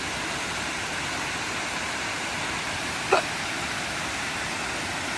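Steady rush of a waterfall, with a dog giving one short, sharp yelp about three seconds in.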